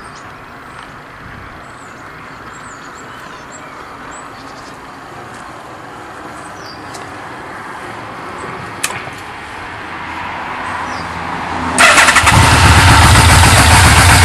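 Yamaha V-Max V4 motorcycle engine on its stock exhaust starting up about twelve seconds in and then running loudly, after a quiet stretch with a single click about nine seconds in.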